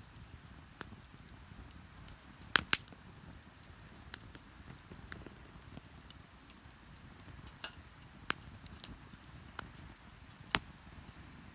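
Wood bonfire crackling, with a handful of sharp pops (two loud ones close together a few seconds in, more later), over the low steady wash of ocean waves.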